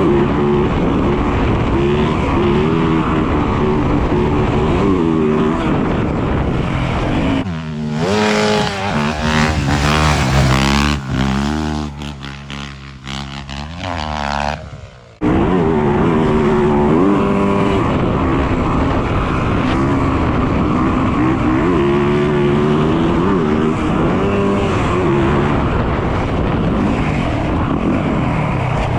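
Dirt bike engine running hard, its pitch rising and falling as it revs up and down. About a third of the way in the sound changes abruptly to a cleaner, fading engine note for several seconds, then the loud running cuts back in suddenly.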